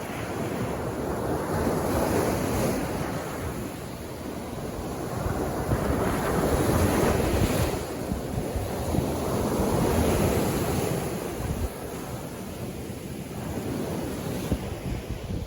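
Sea waves breaking and washing up on a beach, the surf swelling louder and easing off every few seconds.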